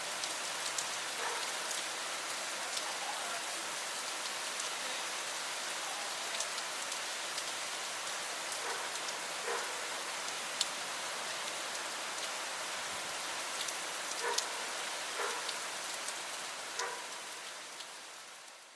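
Heavy monsoon rain falling steadily, a dense even hiss with scattered sharper drops landing close by. It fades out near the end.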